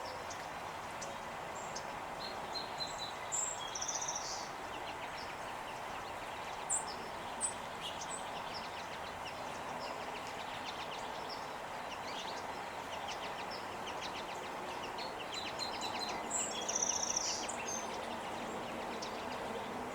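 Small birds chirping now and then, with two sharp chirps about seven seconds in and a busier patch of chirping near the end, over a steady hum of outdoor background noise.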